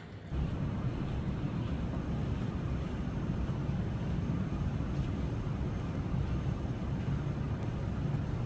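Steady low rumble of a running vehicle, starting abruptly just after the start and holding even throughout.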